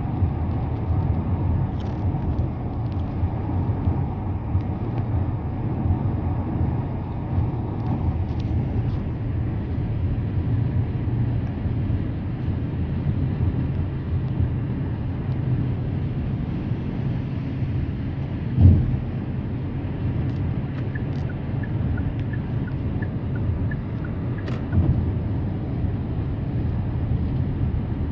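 A car's steady road and engine noise while driving at speed, a low continuous rumble. There is one sharp thump about two-thirds of the way through and a smaller knock a few seconds later.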